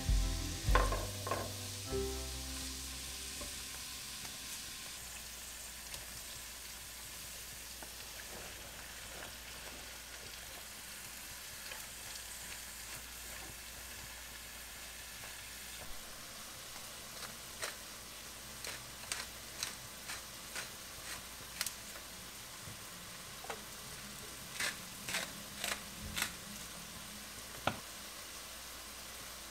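Ground pork and then cubed eggplant sizzling as they stir-fry in a nonstick frying pan, a steady hiss. From about halfway on come a run of sharp clicks as the spatula knocks and stirs in the pan.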